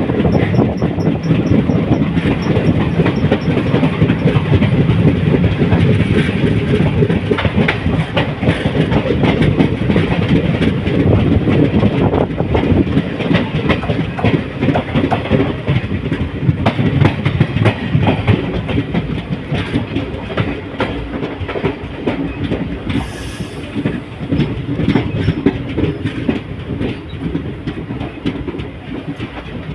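Passenger train running on the rails, its wheels clattering steadily over rail joints, with a brief hiss about 23 seconds in; the clatter grows quieter over the last several seconds.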